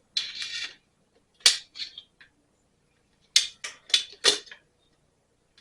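A short rattle, then a series of sharp metallic clicks and clinks from hand tools being handled: one loud click with two softer ones after it, then a quick cluster of about four.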